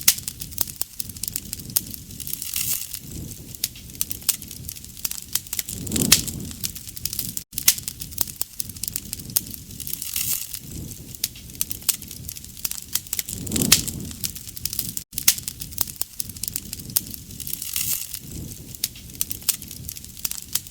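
Wood fire crackling with many sharp pops, and a low rush of flame swelling every few seconds. The sound drops out for an instant about every seven and a half seconds, like a short recording looped.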